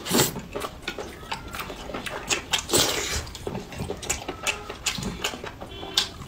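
Close-up mouth sounds of a person eating with chopsticks: wet chewing and smacking with many irregular clicks, louder for a moment near the middle.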